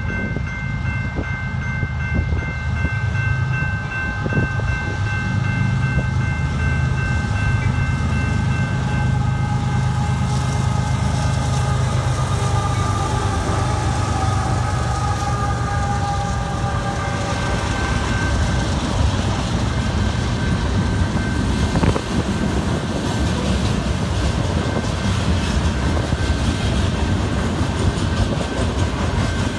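Diesel freight train passing a grade crossing, led by GE locomotive GECX 2029. The crossing bells ring steadily throughout. The locomotive's engine rumbles past with its horn sounding from about ten to eighteen seconds in, then the freight cars clatter by over the rails.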